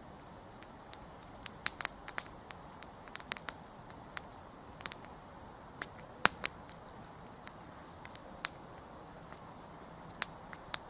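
Wood campfire crackling: irregular sharp pops and snaps over a faint steady hiss, with one louder pop about six seconds in.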